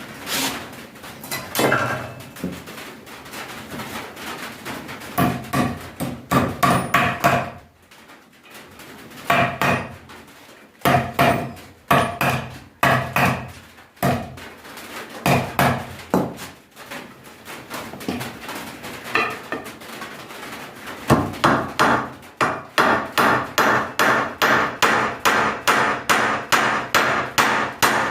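Hammer driving nails into wooden boards: bursts of blows with short pauses between, then a steady run of about two blows a second near the end.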